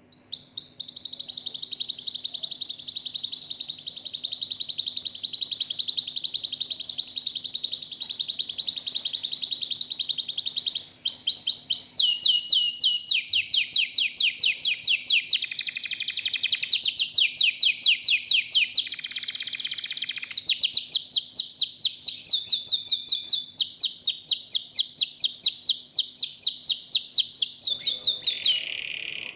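Local canary singing: a long unbroken high rolling trill for about the first ten seconds. Then a run of rapid repeated sweeping notes, about five a second, changing in pitch every few seconds.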